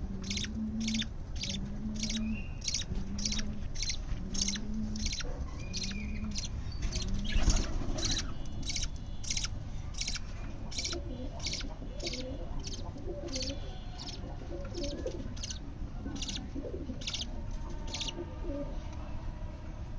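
Budgerigar chicks' raspy begging calls, repeated in a steady rhythm of about three a second, with a low repeated hooting tone under them for the first several seconds.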